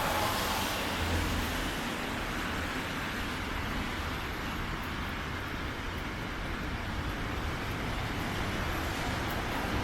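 Steady city traffic noise on a rain-soaked street: an even hiss of wet tyres and rain over a low rumble of passing vehicles.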